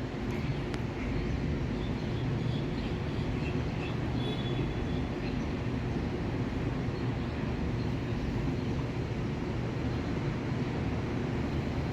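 Steady outdoor ambient noise: an even low rumble with a soft hiss, without distinct events.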